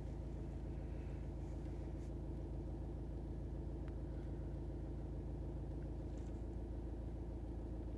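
A VW 2.0 TDI diesel engine idling steadily, heard from inside the car's cabin.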